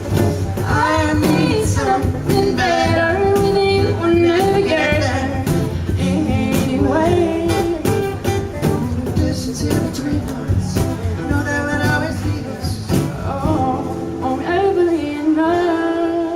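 A song performed live: a singer with acoustic accompaniment and a cajon keeping the beat. The percussion drops out about three seconds before the end, leaving a held sung note over the instruments.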